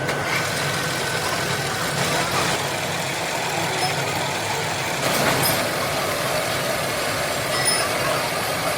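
Steady din of factory machinery running, with a couple of faint knocks.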